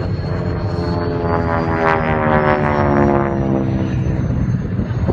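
Propeller airplane flying past at an airshow, its engine note swelling and then dropping in pitch as it goes by.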